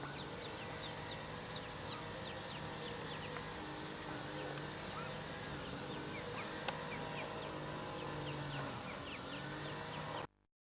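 Mallard ducklings peeping: a dense run of short high peeps over a steady low hum. A single sharp click sounds about two-thirds of the way in, and everything cuts off abruptly near the end.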